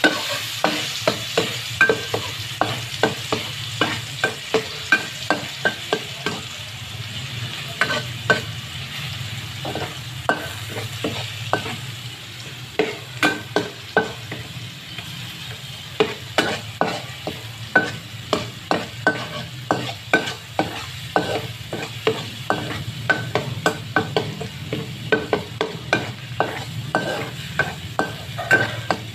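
Minced garlic sizzling steadily in hot oil in a nonstick wok, with a plastic spatula stirring and scraping against the pan in quick strokes, two or three a second, and a couple of short pauses.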